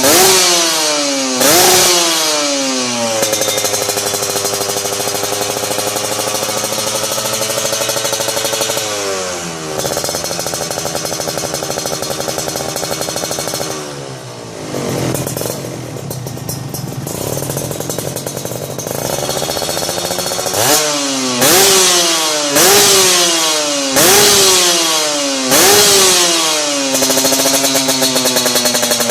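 Kawasaki Ninja R's two-stroke single-cylinder engine revved through a Creampie aftermarket exhaust. There are quick throttle blips at the start, a long high rev held for several seconds, and a brief drop toward idle about halfway. In the last third comes a run of about six sharp blips, each rising and falling back.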